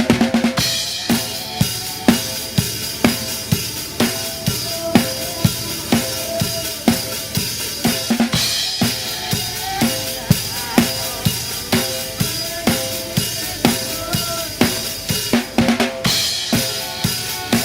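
Drum kit playing a steady kick-and-snare groove, about two hits a second, with a cymbal crash near the start, about eight seconds in and near the end. Melodic backing music runs underneath.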